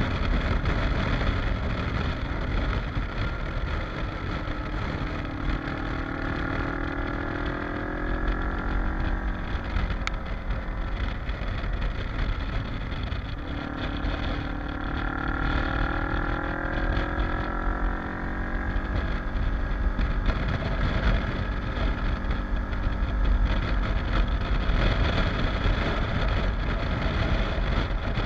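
Kawasaki KLE motorcycle engine under way, its pitch climbing as it accelerates, dropping suddenly about halfway through at a gear change, then climbing again. Heavy wind rumble on the microphone runs underneath.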